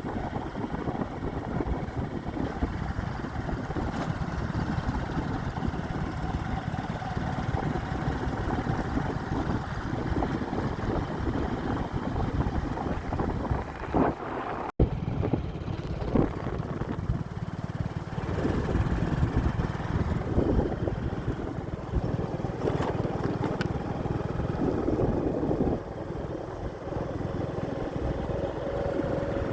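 Wind buffeting the microphone during a motorbike ride, over the steady running of its engine. The sound drops out abruptly for an instant about halfway through.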